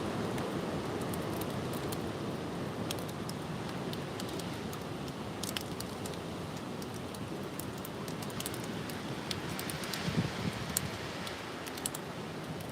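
Strong gusty wind blowing as a steady rush, with scattered light clicks and rustles and a brief louder bump about ten seconds in.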